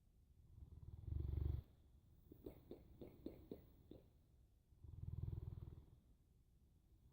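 Boerboel (South African mastiff) snoring in its sleep: two low rumbling snores about four seconds apart, with a run of soft clicks between them.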